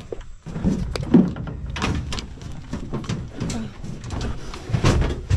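Irregular knocks, bumps and clatters, as of people and luggage moving about on a river boat while boarding.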